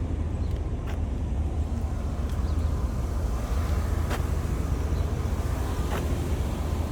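Steady city street traffic noise with a low rumble, and a few faint clicks scattered through it.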